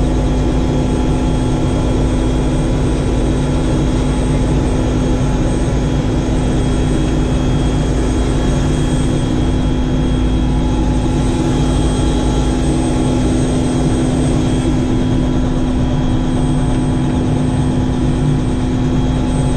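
Helicopter in steady cruising flight, heard from inside: a loud, even drone of rotor and turbine engine with a steady hum.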